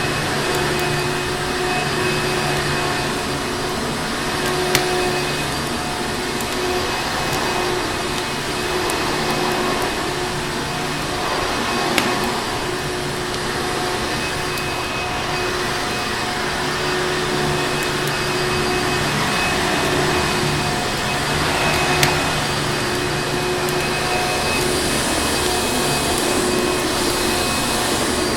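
Vacuum cleaner running steadily, a constant rushing noise with a steady hum, with a few sharp crackles from a fireplace mixed in.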